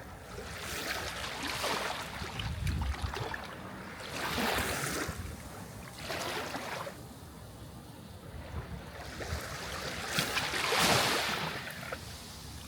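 Sea waves breaking and washing in, four hissing surges rising and falling, the biggest about ten seconds in, over a low rumble.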